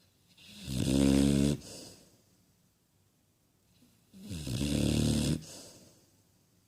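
Cane corso snoring in its sleep: two snores about three and a half seconds apart, each lasting about a second and fading off into a softer breath.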